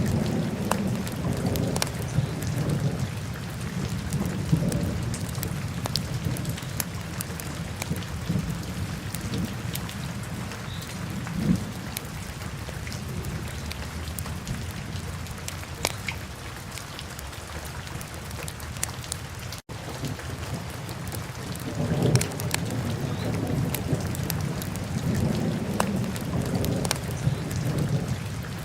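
Wood fire burning in a fireplace: a steady low roar of flames, swelling now and then, with many sharp crackles and pops. The sound drops out for an instant about two-thirds of the way through.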